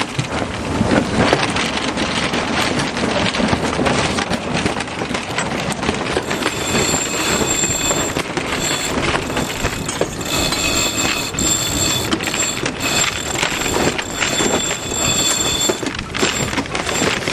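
Steady wind noise and rush aboard a sailboat under way, with frequent small clicks and rattles; a faint high steady whine joins from about six to fifteen seconds in.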